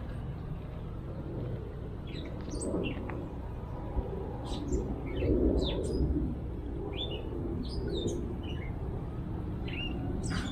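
Small birds chirping: a scattered series of short, high chirps and quick pitch sweeps over a steady low outdoor rumble, which swells briefly about halfway through.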